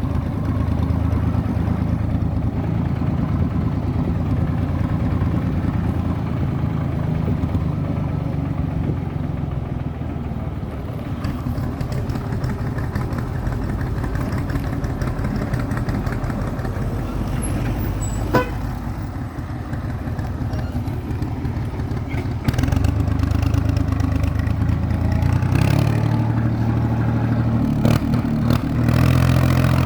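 IMT 549 tractor's diesel engine running under way, a steady low drone with one sharp click about two-thirds of the way through. In the last several seconds the engine gets louder and its note steps up, as when the tractor is accelerated and shifted through the gears.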